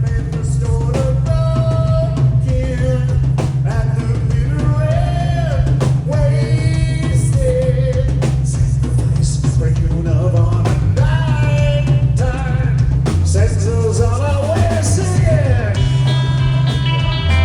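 Rock band playing live, with a sung lead vocal over drums, bass and electric guitar.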